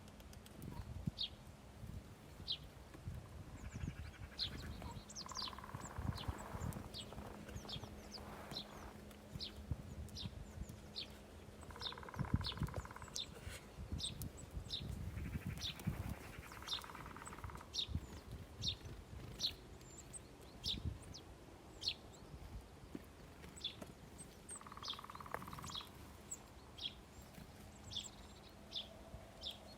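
Birds at a feeder chirping: a steady run of short, high chirps, one or two a second, with a longer, lower call heard four times. A faint steady hum runs underneath.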